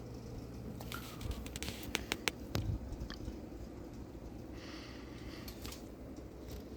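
Bahama 42-inch ceiling fan with a low motor hum, and a quick run of sharp clicks and knocks between about one and three seconds in.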